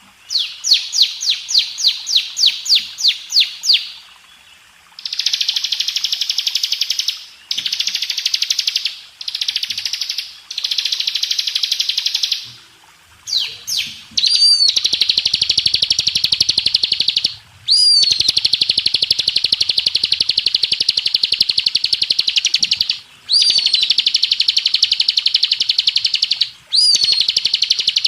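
Ciblek (bar-winged prinia) singing. It opens with a quick series of separate sharp notes, about four a second, then gives buzzy rapid trills in short bursts. Later come long unbroken trills of several seconds each, every one opening with a short rising note.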